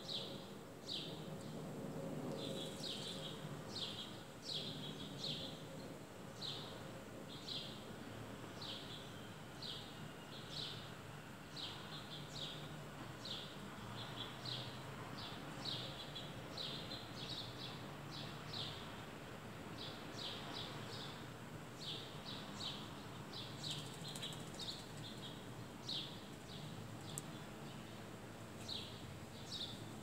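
A small bird chirping over and over, short high chirps about once a second with a couple of brief pauses, over a steady low background rumble.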